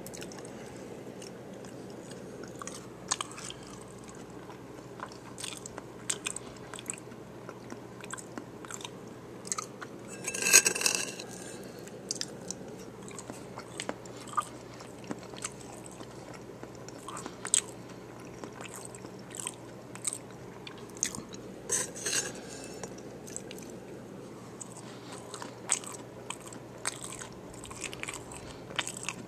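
A person chewing a taco bowl with a hard tortilla shell: irregular crunches and chewing, with a louder crunching bite about ten seconds in and another about twenty-two seconds in.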